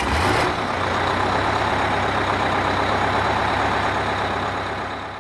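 Large diesel vehicle running, a steady hiss over a low hum that fades out near the end.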